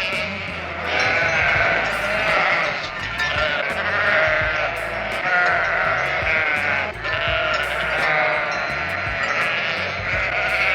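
Several animals bleating, with overlapping wavering calls about once a second, over background music.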